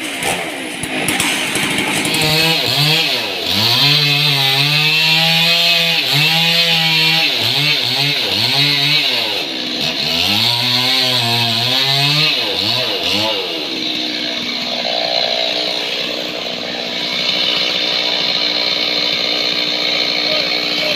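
Engine-driven sawmill blade cutting through a large trembesi (rain tree) log. The engine's pitch sags and recovers several times under the load in the first half, then it runs steadily.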